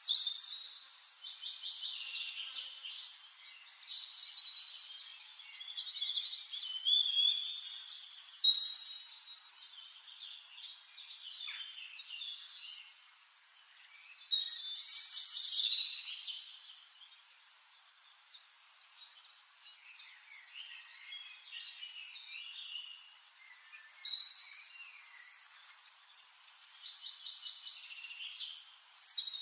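Songbirds singing: bursts of quick, warbling whistled and trilled phrases every few seconds, with quieter chirping in between. The loudest phrases come about eight seconds in and again near twenty-four seconds.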